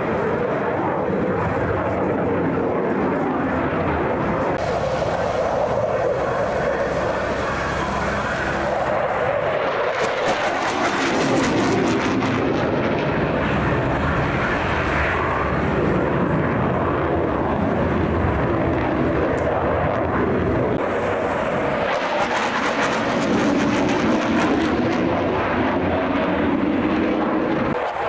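Jet aircraft flying display passes, a steady engine roar whose pitch drifts up and down as it moves, turning rougher and crackling twice.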